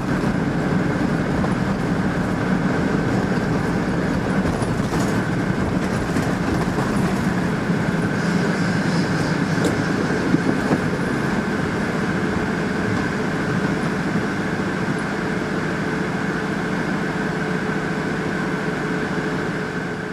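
Steady running noise of a train, an even rumble with a constant hum through it, unbroken throughout.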